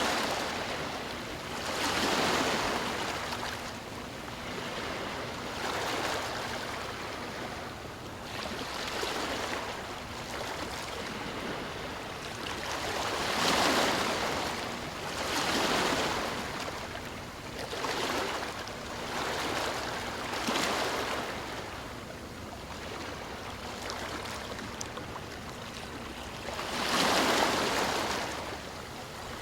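Sea waves breaking and washing in, the rush of surf swelling and fading every few seconds.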